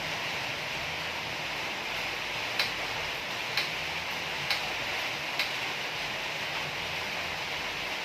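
Four short, sharp clicks about a second apart over a steady hiss.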